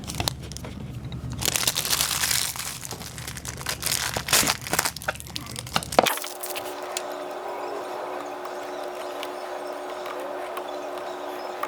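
Plastic packaging crinkling and tearing in irregular bursts as a small replacement part is unwrapped by hand. About six seconds in, this stops abruptly and a steady, quieter hum carries on.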